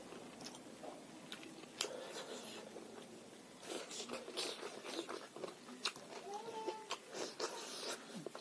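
A person chewing and biting food close to the microphone: irregular crunchy bites and sharp wet mouth clicks, busiest in the second half.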